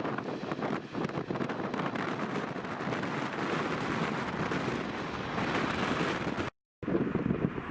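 Strong wind buffeting the microphone, a loud rough rush with a distant roar underneath. It cuts out completely for a moment near the end.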